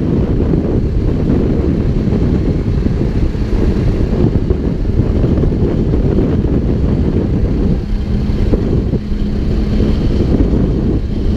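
Backhoe's diesel engine running steadily, a low rumble with a faint steady hum, mixed with wind on the microphone.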